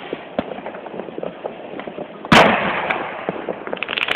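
Fireworks: one loud bang about two seconds in, over a scatter of smaller pops and crackles, which grow denser near the end.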